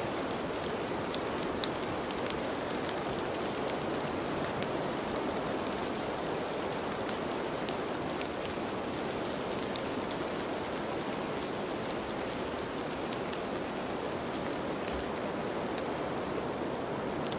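Steady rain falling, an even hiss with scattered sharp drips of drops striking nearby surfaces.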